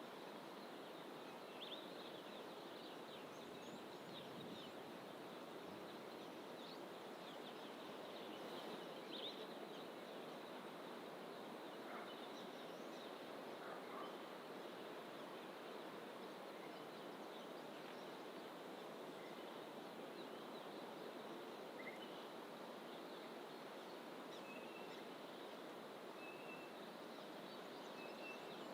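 Distant wild birds calling sparsely over a faint, steady background hiss. Short high chirps are scattered throughout, and one bird repeats a short high note several times near the end.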